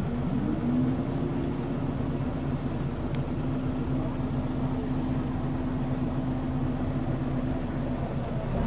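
Scania L94UB bus's diesel engine running steadily at an even, low engine note, with no change in pitch or load.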